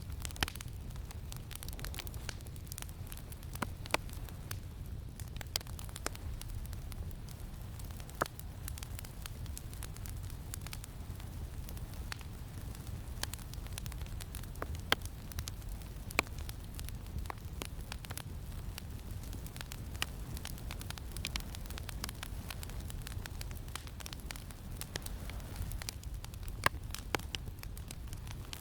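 Campfire crackling, with sharp irregular pops, over a steady low rumble of wind.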